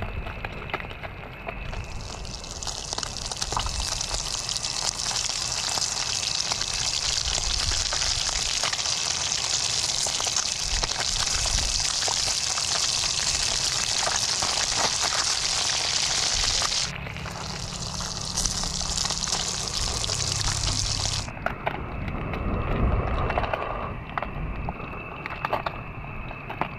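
Fish frying in hot oil: a steady sizzle that starts abruptly about two seconds in, breaks off briefly about two-thirds of the way through, and stops suddenly a few seconds before the end.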